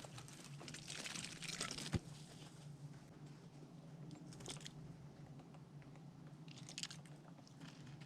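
A squirrel gnawing and crunching food at a feeder, in short bursts of crackling, with one sharp click about two seconds in.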